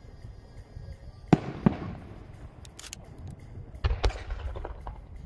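Aerial firework shells bursting far off: two sharp bangs about a second in, a fraction of a second apart, then another cluster of bangs and smaller cracks near four seconds.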